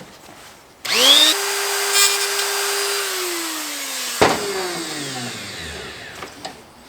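Electric rotary tool fitted with a burr switching on and spinning up to a steady high whine, then slowing and winding down to a stop, with a sharp click partway through the wind-down.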